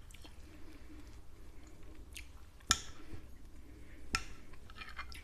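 A person chewing a mouthful of canederli, Trentino bread dumplings in broth, with faint soft mouth sounds. A few sharp clicks come through; the loudest is about two and a half seconds in, and another follows about a second and a half later.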